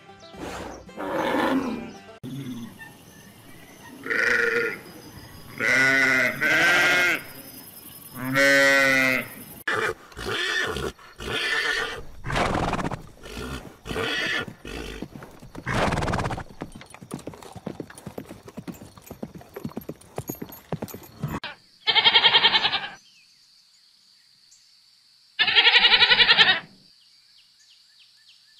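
A cow lowing several times, then a run of short calls from horses, then sheep bleating twice, each bleat about a second and a half long, near the end.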